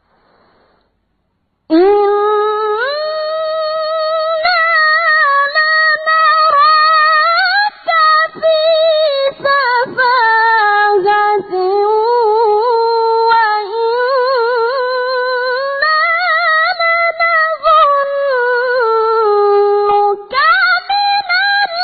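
A boy qari's voice in melodic Quran recitation (tilawah), drawing out long ornamented phrases with wavering, trilled pitch. It starts about two seconds in and pauses briefly near the end before the next phrase.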